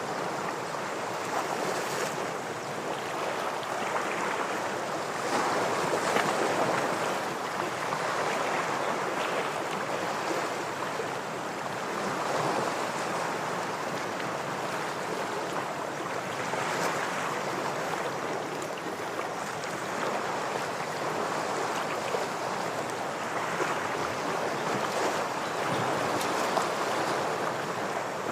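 Ocean waves washing against rocks, a continuous rush that swells and eases every few seconds as each wave surges in.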